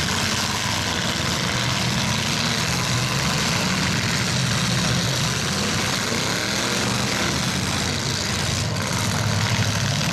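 Several demolition derby trucks' engines running together, a loud steady wash of engine noise.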